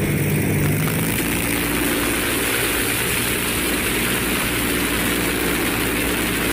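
Six-cylinder Rolls-Royce Continental aircraft engine of the TMC Dumont motorcycle running steadily.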